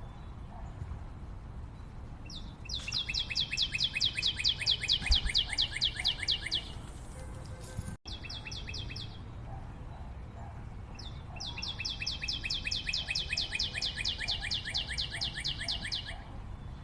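A bird calling in long runs of rapid, evenly repeated high notes, about five a second. The first run lasts about four seconds, a short run follows just after a brief dropout, and a second four-second run comes near the end. Fainter, lower bird notes repeat in the background.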